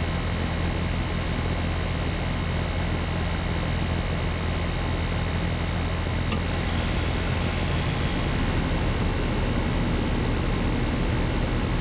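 Air conditioner outdoor condensing unit running steadily: the compressor's low electrical hum under the rush of the condenser fan. There is one faint click about halfway through.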